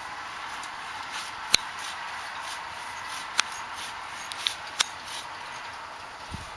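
Hand saw working through a blue spruce trunk in steady back-and-forth strokes, with four sharp cracks or snaps between about one and a half and five seconds in.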